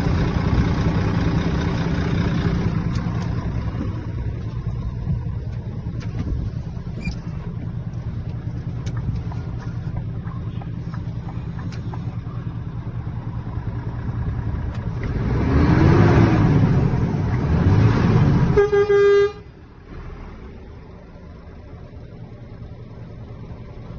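Scania truck's diesel engine idling, revved up and back down twice about fifteen to eighteen seconds in. A short horn toot follows, then the sound drops suddenly to a quieter steady hum.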